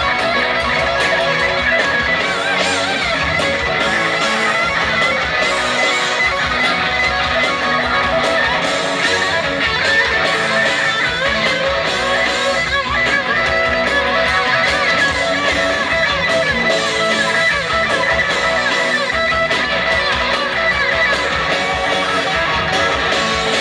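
Southern rock band music: a lead electric guitar playing fast runs with wavering, bent notes over strummed rhythm guitar, bass and drums, a steady loud instrumental passage with no vocals.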